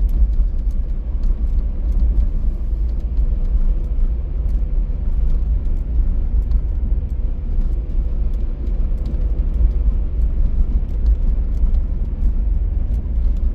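A car driving along a road: a steady low rumble of road and engine noise, with faint scattered ticks over it.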